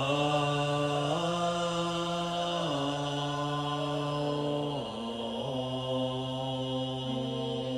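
A single male voice chanting in long held notes, stepping up and down between a few pitches every second or two, in the manner of a meditation chant.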